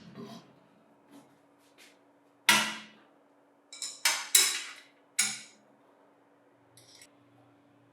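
Sharp metal knocks and clinks of bench grinder motor parts and tools being handled during assembly. There is one loud knock about two and a half seconds in, then a quick run of four between about four and five seconds, each ringing briefly.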